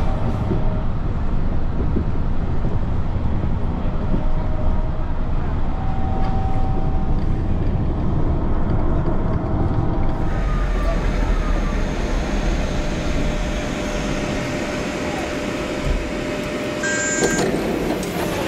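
Running noise heard inside a driverless elevated train's cabin: a steady rumble, with a brief high tone near the end.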